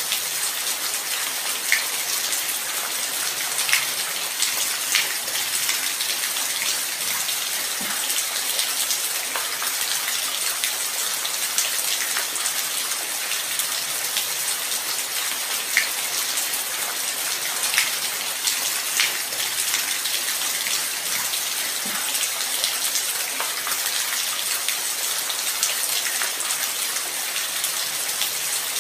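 Light rain falling steadily: a dense, even hiss of drops with louder single drops ticking now and then.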